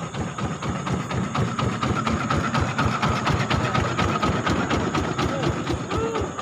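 Small single-cylinder boat engine putting steadily, with rapid even knocks. Crickets and other night insects shrill behind it.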